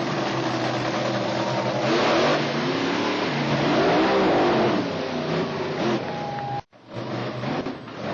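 Monster truck engine revving hard, its pitch swelling up and falling back about two and four seconds in. The sound cuts out for a moment near the end, then the engine picks up again.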